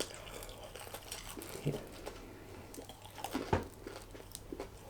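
Someone chewing a mouthful of chicken wrap, with soft wet clicks and small crinkles now and then; a low steady hum underneath.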